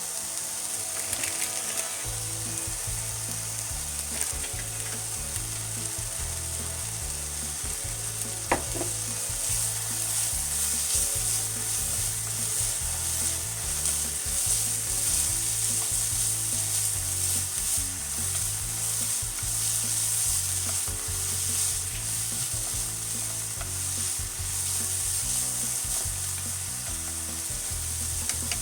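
Chopped daikon leaves and peel stir-frying in sesame oil and mentsuyu in a frying pan: a steady sizzle with the scraping of stirring and one sharp knock of the utensil against the pan about a third of the way in.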